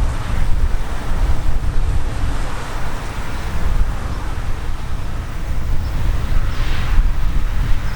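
Wind buffeting the microphone outdoors: a loud, irregular low rumble with a rushing hiss above it.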